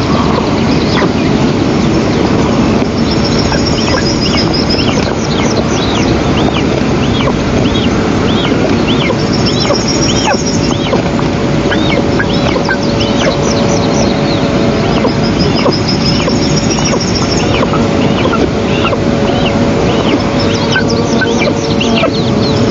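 Eastern imperial eaglets begging for food: a long run of short, high, arched chirping calls, one to two a second, over steady background noise. A higher trill from a small songbird repeats every five or six seconds.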